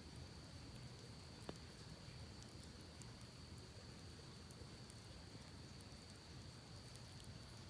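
Campfire crackling faintly, with sparse small pops and one sharper pop about a second and a half in, over a low steady rush and a thin steady high tone.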